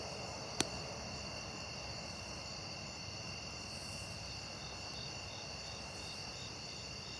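Crickets or similar insects chirping steadily in several high-pitched trills, one of them pulsing about twice a second. About half a second in comes a single sharp crack, typical of wood popping in a bonfire.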